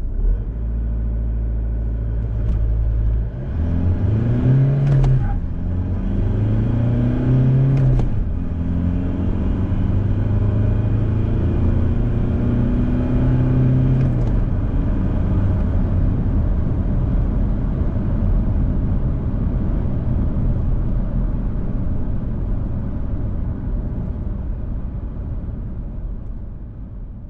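Isuzu D-Max's 3.0-litre four-cylinder turbo-diesel accelerating hard through the gears of its six-speed manual. The engine note climbs and drops back at gear changes about 5, 8 and 14 seconds in, with a click at each change, then runs steadily at speed and fades out near the end.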